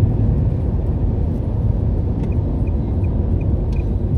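Steady low rumble of a car driving at road speed, heard inside the cabin. A few faint short high ticks, about three a second, come through in the second half.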